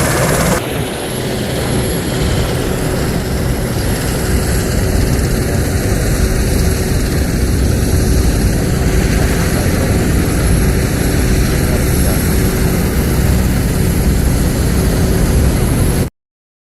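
Helicopter running close by: a steady rotor and engine noise with a strong low rumble. It cuts off suddenly near the end.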